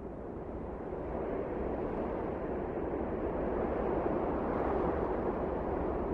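Blizzard wind blowing as a steady rushing noise that swells gradually through the first few seconds.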